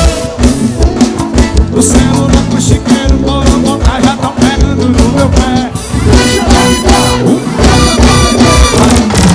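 Forró band music playing loud, with a steady drum beat and bass under pitched melody instruments.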